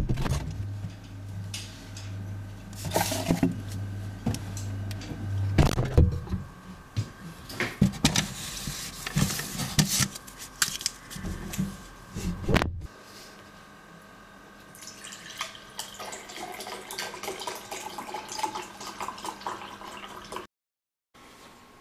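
Kitchen sounds: a string of knocks, clatters and clinks, then a quieter stretch of running and pouring liquid into a glass.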